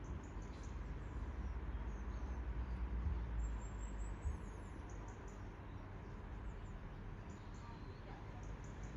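A low rumble, strongest in the first four seconds and easing after a thump, with scattered short, high chirps of small birds.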